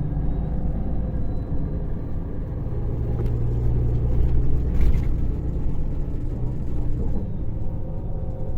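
Scania K400 bus's inline-six diesel engine running with a steady low rumble, growing a little stronger midway, with a brief knock about five seconds in.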